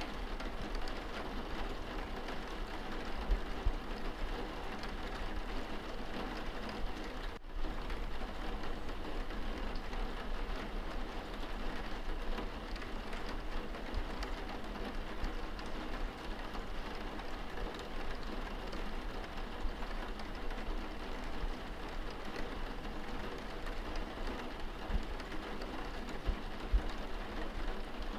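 Steady rain pattering on window glass, heard from inside the room, with a few louder single drops now and then.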